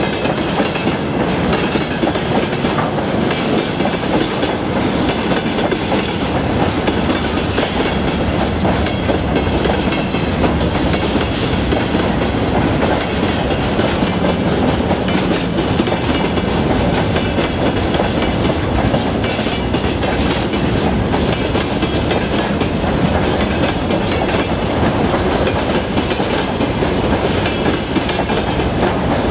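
Freight wagons rolling past close by: tank cars, then open gondolas and covered hoppers, their steel wheels clacking over the rail joints in a loud, steady rumble with many sharp clicks.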